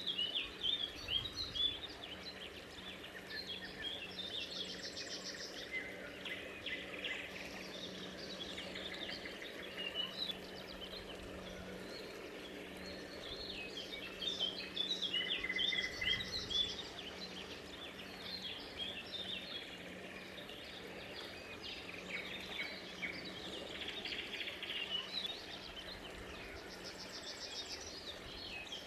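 Chorus of small birds: many short chirps and calls overlapping throughout, with a few brief trills higher up, over a steady low hum.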